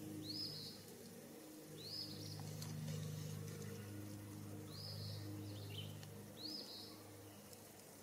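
A songbird calling: four short, high, arched chirps, repeated every couple of seconds, over a steady low hum.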